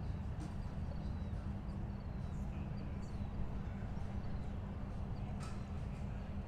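Harbor-side city ambience: a steady low rumble of distant traffic and boats, with a few faint short bird chirps and one brief sharp click about five and a half seconds in.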